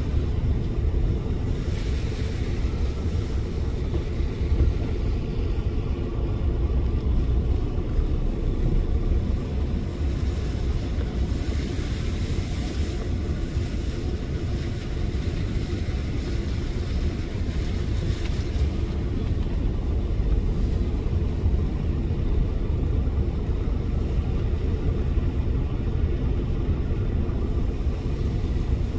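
Steady low rumble of a car driving, heard from inside the cabin, with a few brief higher hisses.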